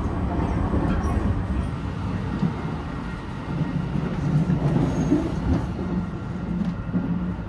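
Steady low rumble of the Sunrise Express sleeper train (a 285 series electric train) running along the line, heard from inside the carriage.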